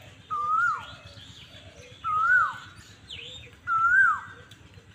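A bird calling three times, about a second and a half apart. Each call is a loud whistle that rises a little, then drops sharply, and each one is pitched slightly higher than the one before.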